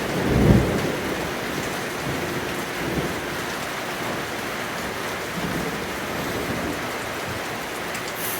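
Heavy rain falling steadily, with a low roll of thunder loudest about half a second in that fades over the next second.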